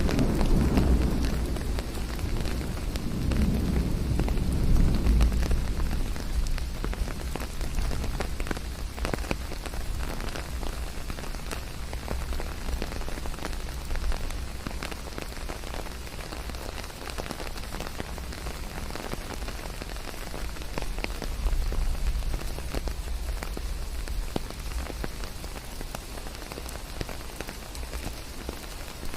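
Steady rain falling on a surface, with many separate drop strikes heard through it. A deep low rumble rises over the rain for the first few seconds and briefly again about two-thirds of the way through.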